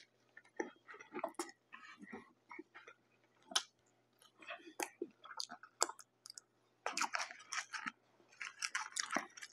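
Chewing a mouthful of Big Mac: irregular wet mouth clicks and smacks, growing busier in the last couple of seconds.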